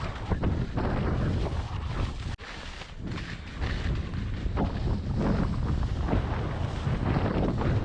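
Wind buffeting an action camera's microphone during a ski run, mixed with the rough scraping and chatter of skis on firm spring snow. It cuts out for an instant about two and a half seconds in.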